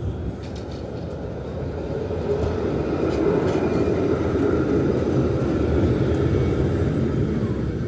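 Tram running on its rails, a steady rumble that grows louder about two seconds in and stays up, with a few light clicks.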